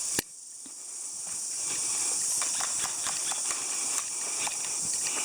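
Steady high-pitched chorus of insects, broken by a sharp click right at the start, with scattered light clicks and ticks over it.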